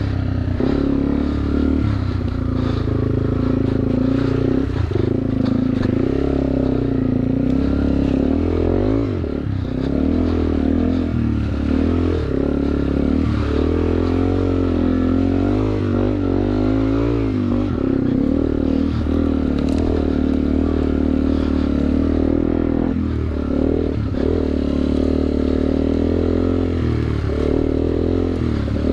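Yamaha TW200's single-cylinder four-stroke engine running continuously as the bike is ridden through mud, its pitch rising and falling with the throttle.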